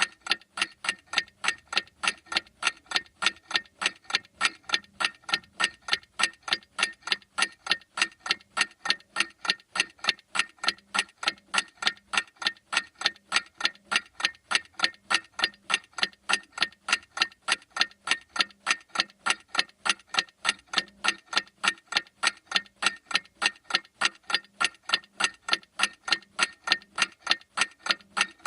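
Clock ticking steadily at an even rate, each tick a short sharp click.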